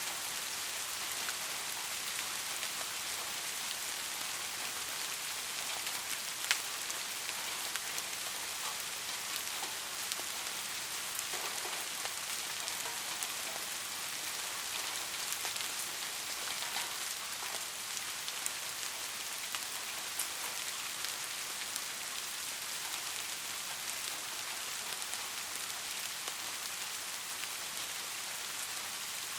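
Steady rainfall hissing on surfaces, with scattered individual drops ticking and one sharper drop about six seconds in.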